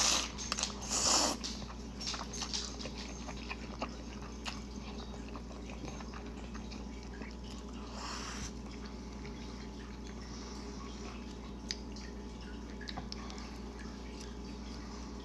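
Close-miked eating sounds of spicy instant noodles: wet chewing and mouth clicks, with louder noisy bursts near the start and about eight seconds in.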